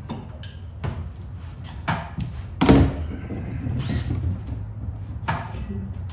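A string of clunks and clicks from hard objects being handled or knocked, about six in all, the loudest a heavier clunk near the middle, over a steady low hum.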